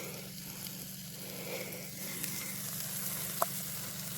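Steady sizzling of butter cooking over a campfire, with one brief high squeak about three seconds in.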